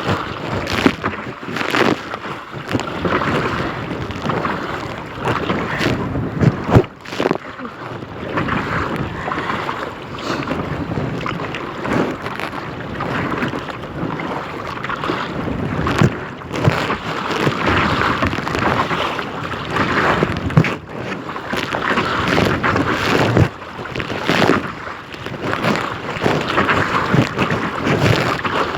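Wind buffeting the microphone in irregular gusts, over water splashing and lapping against a kayak as it is paddled.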